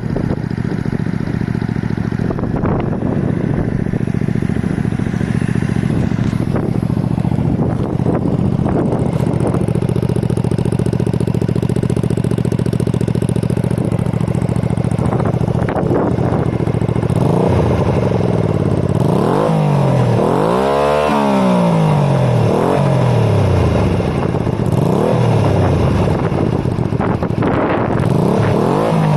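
Honda Shadow 125's small V-twin running through an aftermarket Silvertail exhaust, holding a steady note at cruising revs at first. From about halfway the engine note falls and rises again several times as the revs change through the gears, with one deep drop and climb back around the three-quarter mark.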